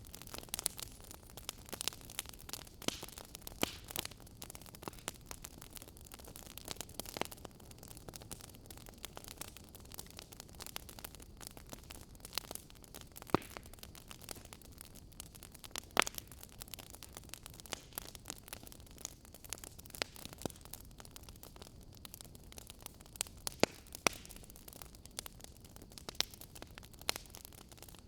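Wood fire burning, with irregular crackles and sharp pops from the burning wood over a soft hiss.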